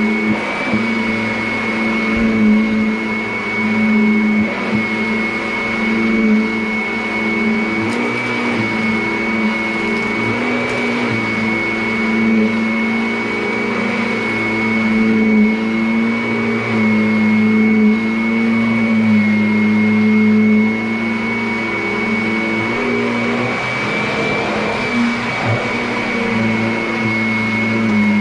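Vacuum cleaner running continuously, with a steady high-pitched whine over a lower motor hum that shifts slightly in pitch now and then.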